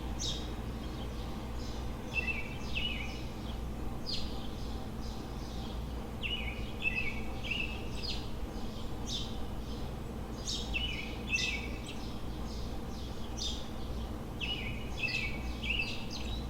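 A songbird sings the same short phrase over and over, every few seconds: a few quick high notes followed by a higher trill. Under it runs a steady low city hum.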